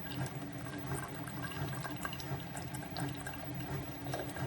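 SIFENE 3-in-1 single-serve pod coffee maker brewing a K-cup: hot liquid streaming and spitting into the mug over the machine's steady low hum.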